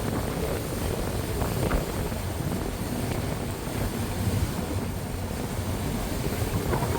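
Steady wind rushing over the microphone with water noise from a moving boat on the bay.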